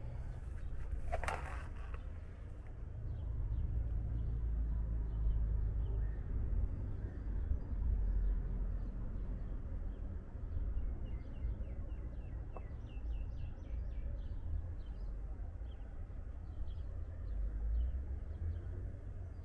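Small birds chirping in quick, short, high calls, many of them in the second half, over a steady low outdoor rumble. A short noise comes about a second in.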